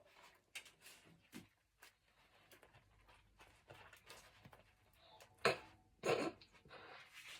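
Faint clicks and light knocks of small objects being handled on a table, with two louder short scraping rustles about five and a half and six seconds in.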